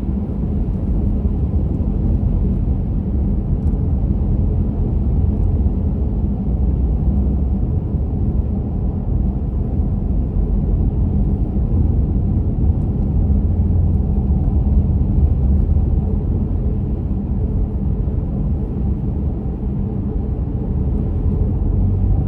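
Steady low rumble of a car driving: engine and tyre noise heard from inside the cabin.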